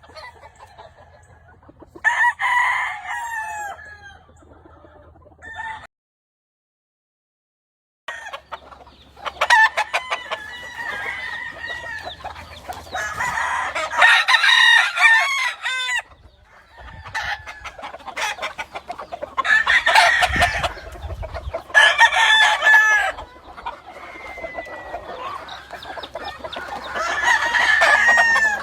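Gamefowl roosters crowing again and again, several crows overlapping, with hens or birds clucking between them. Two seconds of dead silence about six seconds in.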